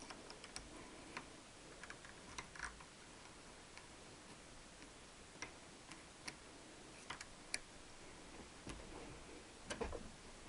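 Faint, scattered light clicks and taps from handling small engine parts at the bench, as a rocker spindle O-ring is tried on for fit.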